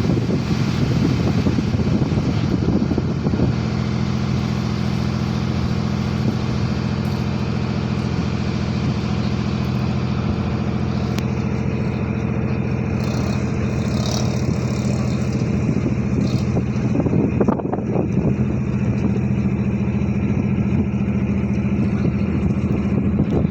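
Ship's engine running steadily during berthing manoeuvres, a low, even hum with wind noise on the microphone; the engine note settles and steadies a few seconds in.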